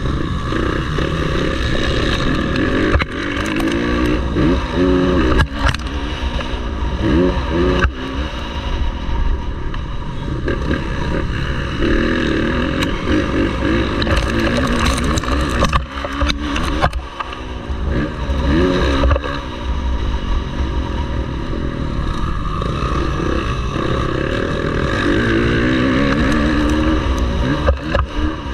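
Motocross bike engine revving hard and easing off again and again, its pitch climbing and dropping every second or two as the rider works the throttle and gears, with scattered sharp knocks and clatter.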